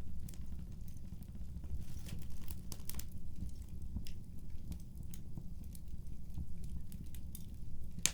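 Wood fire crackling and popping irregularly over a steady low roar of the flames, with one sharper pop near the end.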